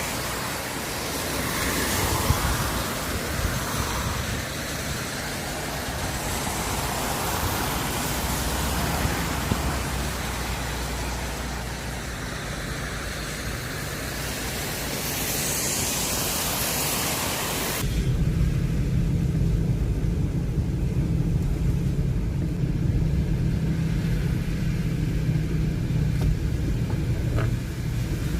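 Car driving through rain on wet roads: a steady hiss of rain and tyre spray. About two-thirds of the way through, the hiss cuts off abruptly, leaving a low, steady engine drone.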